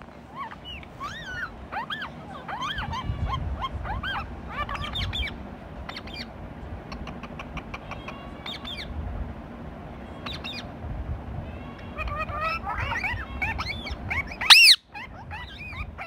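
Birds chirping and calling in short, quick notes throughout, with one loud, shrill call near the end, over a low background rumble.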